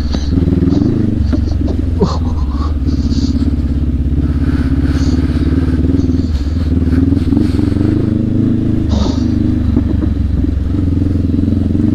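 Adventure motorcycle engine running at a fairly even pitch while riding a dirt trail, with a few short knocks and rattles from the bike over rough ground.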